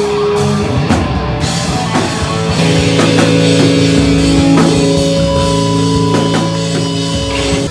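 A pop-punk band playing live and loud: distorted electric guitars over a drum kit.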